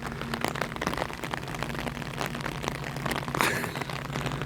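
Rain tapping in many sharp drops on an umbrella over the steady low drone of an approaching Class 70 diesel locomotive's engine.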